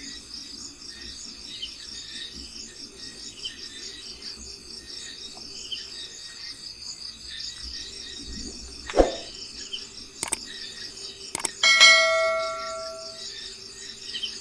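Steady, pulsing insect chirring with occasional small bird chirps. About nine seconds in there is a dull knock, then two sharp clicks, then a metallic clang that rings on for about a second and a half.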